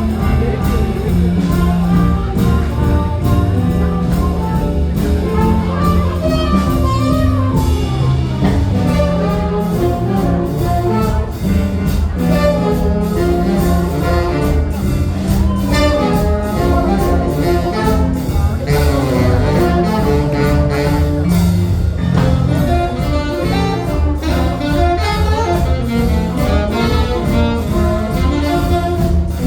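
Live jazz band playing continuously, with horn lines over a bass and drum rhythm section.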